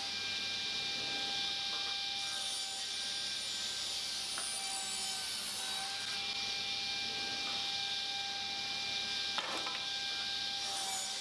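A woodworking power tool running steadily with a high, even whine and hiss, with a single sharp click about nine seconds in.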